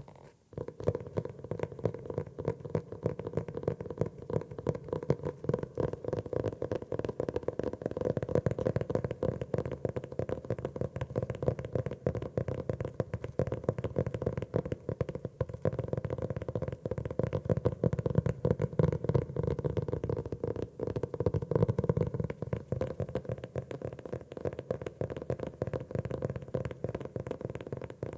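Rapid, continuous tapping on a notebook, many taps a second without letting up, apart from a short break just after it begins.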